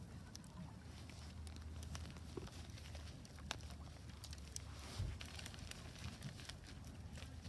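Wood fire crackling in a Solo Stove Ranger fire pit: scattered sharp pops and snaps, one louder about five seconds in, over a low steady rumble.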